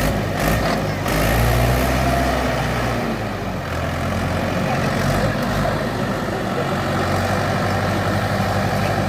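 Mahindra 475 DI tractor's four-cylinder diesel engine running steadily, a little louder for a couple of seconds near the start before settling.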